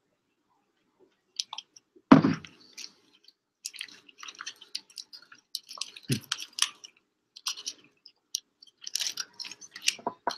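A man speed-eating a foil-wrapped burrito: rapid, wet chewing and biting with the foil wrapper crinkling in his hands. A loud thump sounds about two seconds in, with a second, lower knock about six seconds in.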